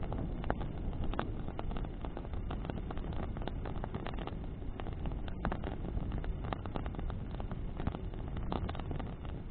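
Bonfire burning in the wind: burning branches crackling with many sharp irregular pops over a steady low rushing of flames and wind.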